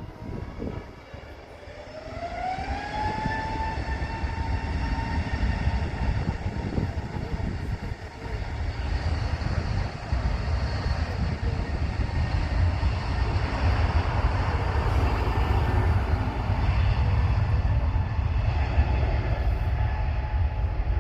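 Jet airliner's engines spooling up: a whine rises and levels off about three seconds in, then a deep rumble of thrust builds and grows louder, as at the start of a takeoff run.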